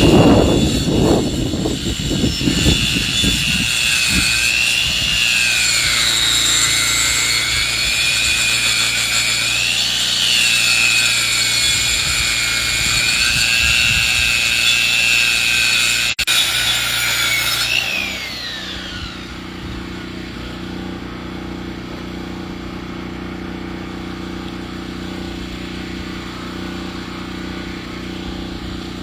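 Engine-driven log saw milling lumber, running under load with a wavering high whine and a few low thuds in the first seconds. About 18 seconds in, the pitch glides down as the cut ends and the engine settles to a steady lower idle.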